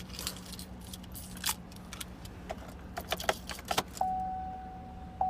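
A bunch of car keys jangling and clicking as they are handled. About four seconds in, a steady high electronic tone starts and holds.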